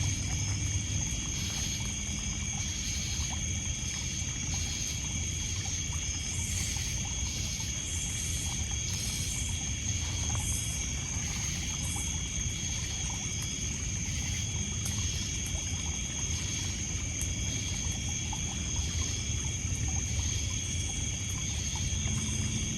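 Night chorus of crickets and other insects: several steady high trills with pulsing chirps that come and go in stretches. Underneath, water lapping on a pebble beach makes a steady low wash, with small crackles from the campfire.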